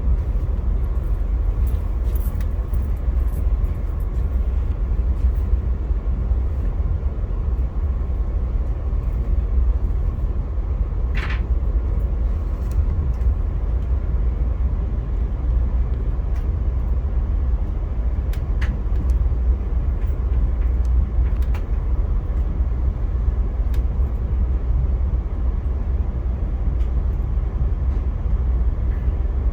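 Steady low rumble of a Via Rail passenger train running on the tracks, heard from inside the coach. Faint clicks are scattered through it, and there is one short higher squeak about eleven seconds in.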